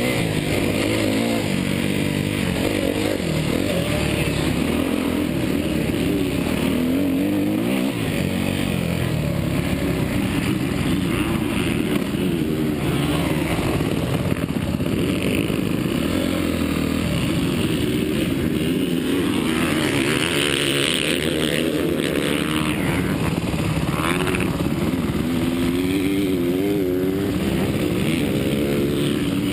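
Suzuki motocross bike's engine revving up and down without a break as it is ridden, its pitch rising and falling with the throttle.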